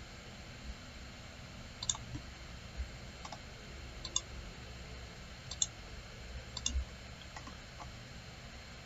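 Computer mouse clicking: irregular single clicks about one to one and a half seconds apart, over a faint steady low hum.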